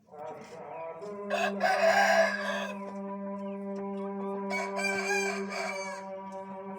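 Rooster crowing: a loud crow about a second in, then a second, shorter call around five seconds in, over a steady hum.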